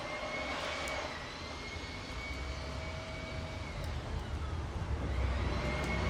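An engine droning with a steady high whine over a low rumble, the rumble growing louder toward the end, as of a vehicle or aircraft passing.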